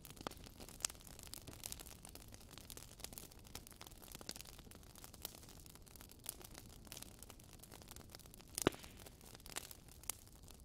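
Wood fire in a fireplace crackling: irregular small pops and snaps over a soft hiss, with one sharper pop late on.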